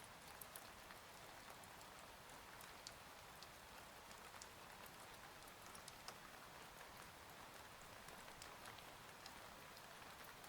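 Faint steady rain, with scattered single drops ticking against a surface.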